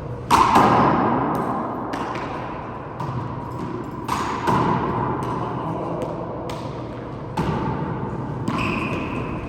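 Handball rally: the ball is struck by hand and smacks against the wall and floor about ten times at uneven intervals, each hit sharp with a ringing echo after it.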